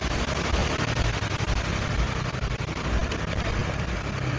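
Motorbike engine running at low speed with a rapid pulsing, amid street traffic noise.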